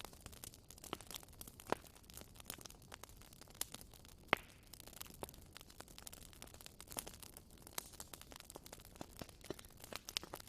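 Wood campfire crackling: a steady stream of irregular small snaps and pops over a faint low rumble, with a sharper pop about four seconds in.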